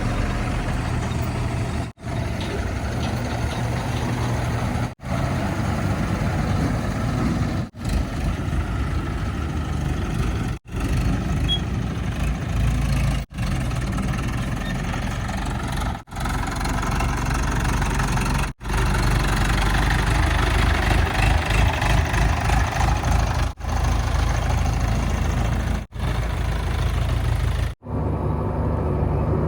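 Heavy diesel machinery running: a backhoe loader and haul vehicles at work. The sound is cut into short clips, with a brief abrupt dropout every two to three seconds.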